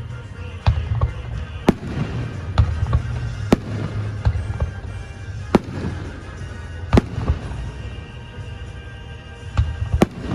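Aerial fireworks bursting: about a dozen sharp booms and cracks at irregular intervals over a steady low rumble, the loudest about seven seconds in.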